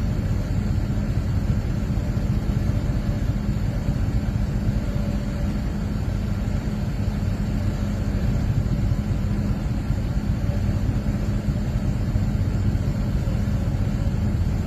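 A vehicle engine running steadily at a constant speed, a low rumble with a steady hum.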